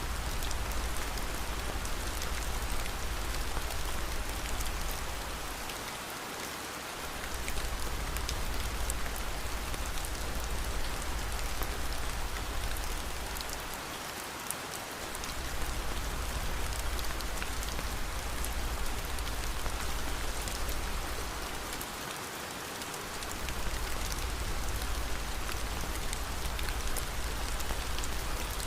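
Steady rain mixed with a fireplace: an even hiss of rain, scattered faint crackles, and a deep low rumble that drops out briefly three times, about eight seconds apart.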